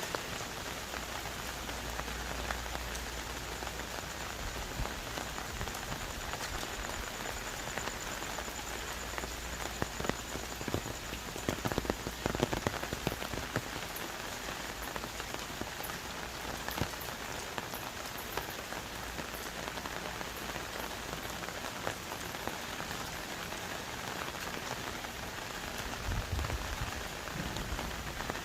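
Heavy rain falling on rainforest foliage: a steady, dense hiss of drops with a few louder drop hits about halfway through.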